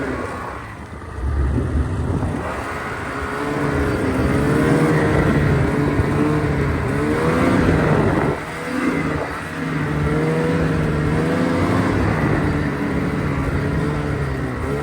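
Engine of a ridden off-road vehicle running under load, its pitch rising and falling as the throttle is worked, with a brief drop in revs about eight and a half seconds in.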